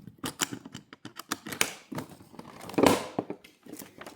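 Sharp plastic clicks and knocks with rustling, as the container of a rotary laser level is opened by hand. The loudest knock comes about three seconds in.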